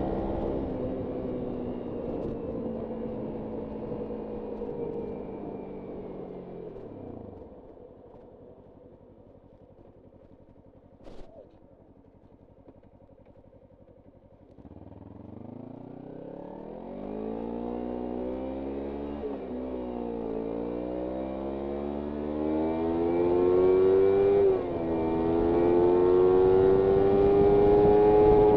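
Kawasaki Ninja 300 parallel-twin engine slowing down, the revs falling off to a near-idle for several seconds, with a single click near the middle. It then accelerates hard, revs climbing through two upshifts and growing louder near the end.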